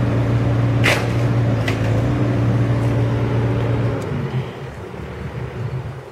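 Heavy demolition machine's engine running steadily under load, with two sharp cracks about a second in and just under two seconds in; about four seconds in the engine drops in pitch and winds down to a lower idle.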